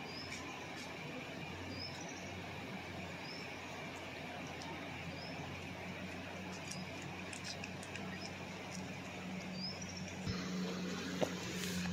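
A small bird repeating a short rising chirp about once a second over steady outdoor background noise and a faint low hum. A few sharp clicks come near the end.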